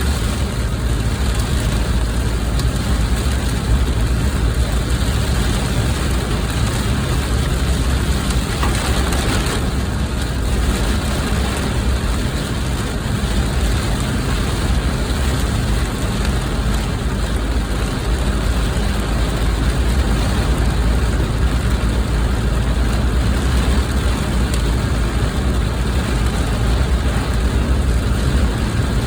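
Heavy rain pouring steadily on a car over a constant low rumble from the vehicle.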